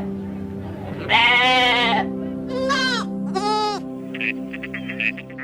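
A bleating animal gives one long, loud, quavering bleat, then two shorter bleats, over background music. Near the end a quick run of short, clipped calls begins.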